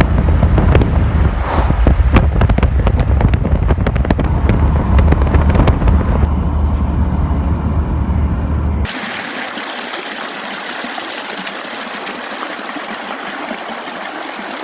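Low vehicle rumble with a steady clatter of knocks and rattles, as on a rough road. About nine seconds in it cuts off abruptly to a quieter, steady rushing hiss.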